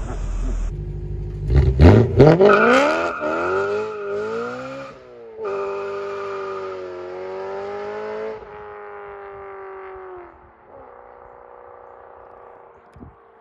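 A BMW E92 M3's 4.0-litre V8, breathing through an X-pipe and modified stock mufflers, revving hard with the pitch sweeping up, then changing pitch again a few seconds in. It then holds a steady note and fades away with a slowly falling pitch as the car drives off.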